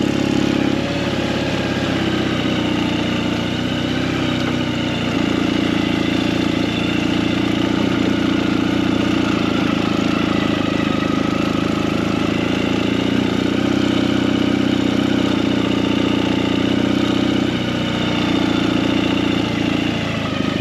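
Motorcycle engine running steadily while riding, its pitch rising and falling slightly with the throttle.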